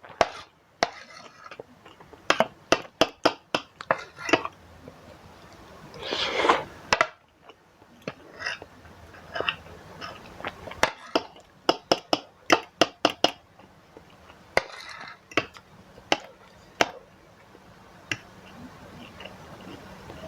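Eating sounds from a mukbang of spicy Maggi instant noodles: a metal fork and spoon clink and scrape against the bowl many times, irregularly, with two longer stretches of slurping about six and fifteen seconds in.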